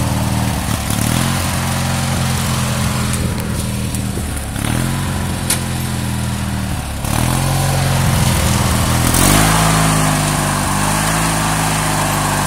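Garden tractor engine running, its pitch sagging and recovering every couple of seconds as it is driven, with a change in its sound about nine seconds in.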